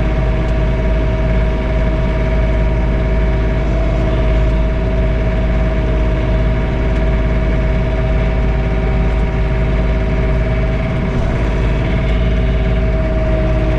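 John Deere 3046R compact tractor's diesel engine running steadily under load, heard from inside the closed cab, with its PTO-driven snowblower engaged. A low rumble carries a constant steady whine.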